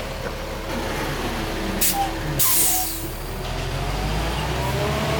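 A heavy diesel engine running steadily, with two short sharp hisses of released air, the first a little under two seconds in and the second, longer one about half a second later. The engine speed rises a little near the end.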